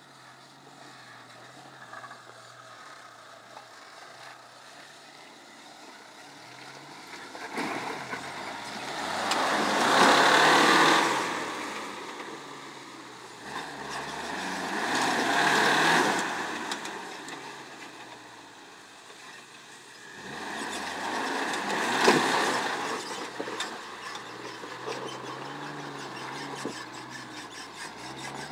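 Suzuki Samurai's small four-cylinder engine running near idle, then revved hard in three long surges as the 4x4 crawls up a rocky ledge, easing back between them. There is a single sharp knock during the third surge.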